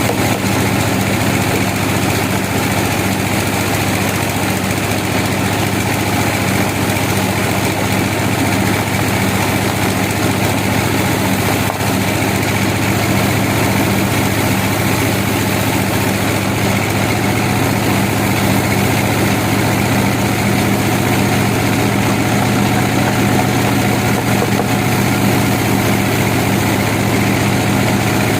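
Sawmill machinery running steadily, a constant engine drone with a low hum that holds the same pitch throughout.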